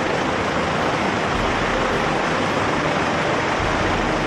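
Bell OH-58 Kiowa helicopter running: a steady rushing noise from its rotor and turbine engine, with a faint steady whine through it.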